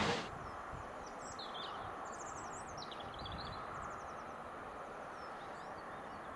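Small birds chirping and trilling in short, rapid phrases over a steady low outdoor background noise.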